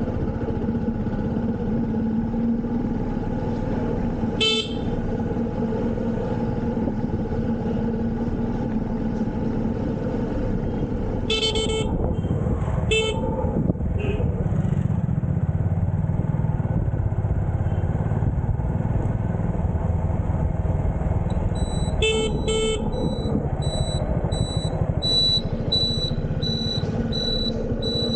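A motorcycle running along the road with steady engine and road noise. Short vehicle horn honks come about 4 s in, twice around 12–13 s, and twice near 22 s. Over the last few seconds a high-pitched beep repeats about twice a second.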